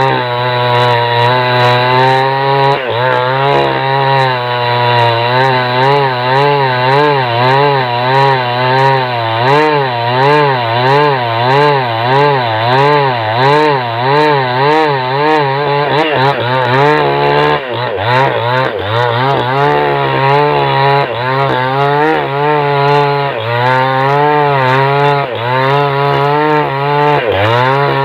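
Small chainsaw cutting through a log at high revs, its engine pitch rising and falling rhythmically about one and a half times a second as the chain bites into the wood, dropping briefly a few times.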